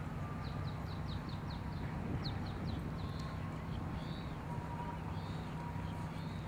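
Small songbird chirping, a quick run of short falling notes followed by a few more chirps and some warbling notes, over a steady low hum of outdoor ambience.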